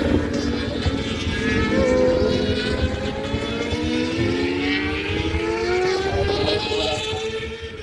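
Racing superbike engines at full throttle, several pitches overlapping and climbing as the bikes accelerate through the gears.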